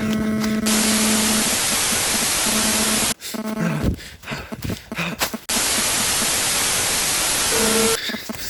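Loud electronic static hiss in two long stretches, each cutting in and out abruptly, with a quieter crackling break between them and a steady low electrical hum.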